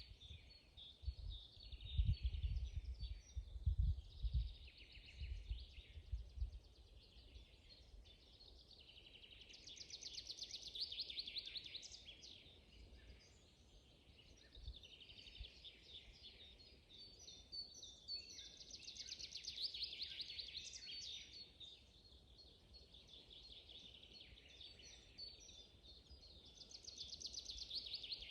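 Forest songbirds singing: fast trilled phrases come back every several seconds, with shorter chirps between them. Low thumps and rumbles sound during the first six seconds.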